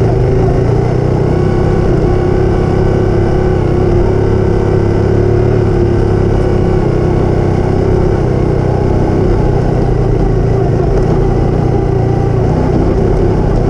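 Motorcycle engine running steadily under way, a constant loud drone whose strongest tone sinks slightly and fades a little past the halfway point.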